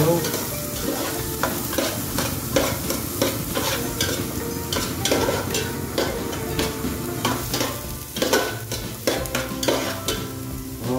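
Garlic and onions frying in hot oil in a pan, with a steady sizzle. A utensil stirs them, scraping against the pan in quick, irregular strokes.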